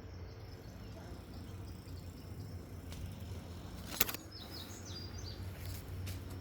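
Outdoor ambience: a steady low background rumble, a single sharp click about four seconds in, and a few short high bird chirps just after it.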